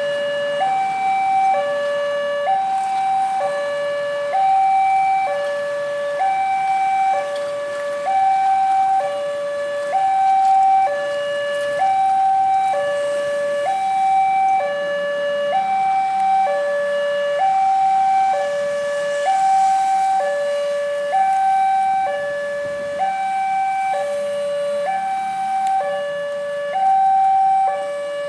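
Level-crossing warning alarm sounding: an electronic two-tone signal alternating evenly between a higher and a lower pitch, each held about a second, warning that a train is approaching and the barriers are closing.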